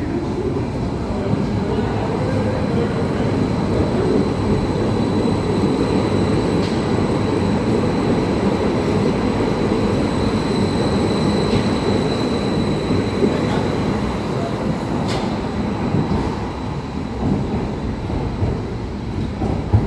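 Berlin U-Bahn type JK train running on the rails: a steady rumble of wheels on track, with a faint high whine through the middle and a few sharp clicks.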